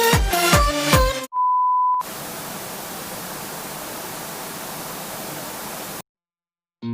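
Electronic dance music with a steady beat cuts off after about a second. A single steady high beep follows briefly, then a burst of even static hiss lasting about four seconds, which stops abruptly. A guitar-based music track starts right at the end.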